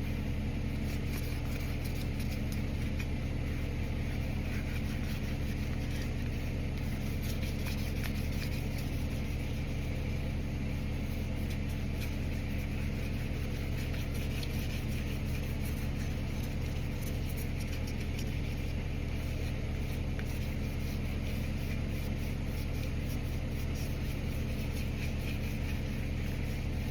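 A motor or engine running steadily: a constant low hum that does not change.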